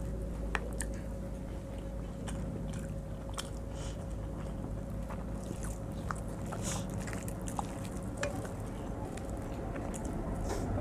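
Eating khichuri with the fingers: scattered soft clicks and wet mouth smacks of chewing, and fingers mixing rice on a plate, over a steady low hum.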